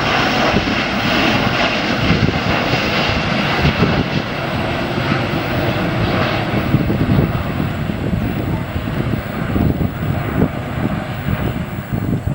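Jet airliner's engines roaring loudly as it passes, with a deep crackling rumble; the higher part of the roar fades away over the seconds as the plane moves off.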